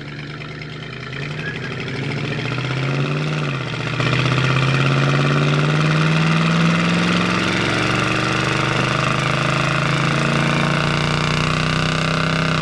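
1971 Plymouth Road Runner's 383 V8 pulling under acceleration. Its note rises, drops back twice as the 727 automatic shifts up, and grows louder about four seconds in.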